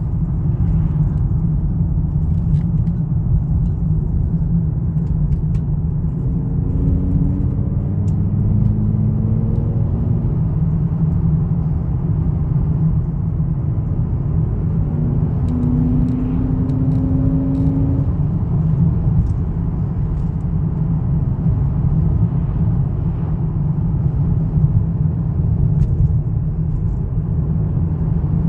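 Volvo V70 2.4's naturally aspirated five-cylinder engine running with a steady low rumble. A faint, slightly rising tone comes in over it twice, around six seconds in and again around sixteen seconds.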